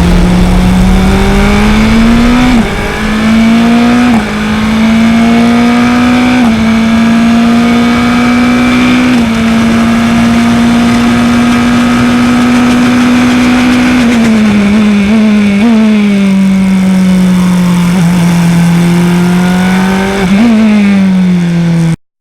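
Race car engine under hard acceleration: its pitch climbs and drops back at two upshifts about three and four seconds in, then holds high revs. Past the middle the revs fall through downshifts with quick throttle blips, and again near the end, before the sound cuts off abruptly.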